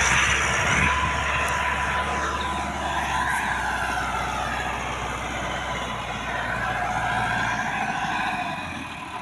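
Tractor engine running under load, a steady low drone with a whine that drifts up and down in pitch above it. The engine sound fades away near the end.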